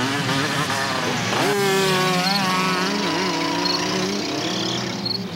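Motor-vehicle engine sounds rev up about a second and a half in, then several run together at a steady pitch.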